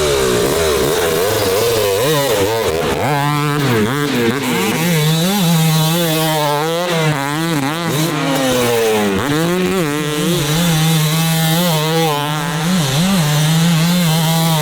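Yamaha YZ250 two-stroke motocross bike fitted with a very short FMF silencer, being ridden hard: the engine note climbs and drops again and again as the throttle is opened and closed, with short stretches held at a steady pitch.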